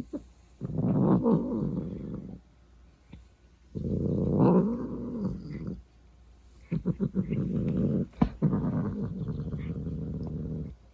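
A cat making three long, drawn-out growling calls whose pitch bends up and down, the last one the longest.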